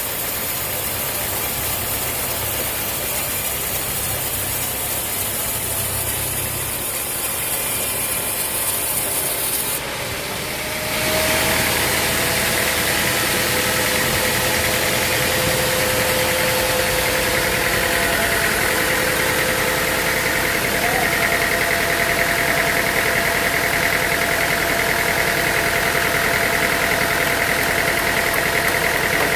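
Sawmill machinery running steadily. About ten seconds in the sound changes abruptly and grows louder, with a steady whine running on from there.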